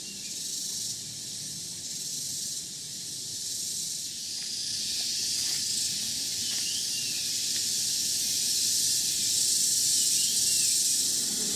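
Rainforest insect chorus: a high, hissing drone that pulses in even beats at first, then swells louder and steadier. A few faint short chirps sound over it.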